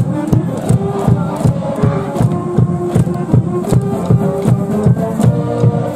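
A school brass band playing a baseball cheering tune over a steady, fast drum beat, with a crowd chanting along.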